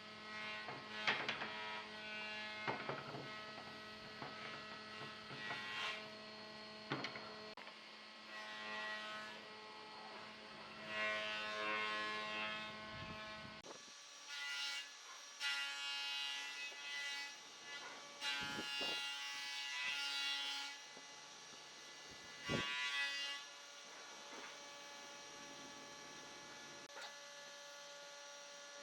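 Workshop sounds: a steady electrical hum, with irregular scraping of wood and a few sharp knocks. A lower part of the hum stops about halfway through.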